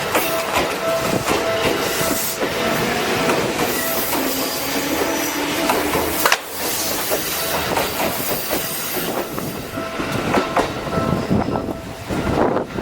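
Seibu New 101 series electric train running on the rails, its wheels clattering over the track.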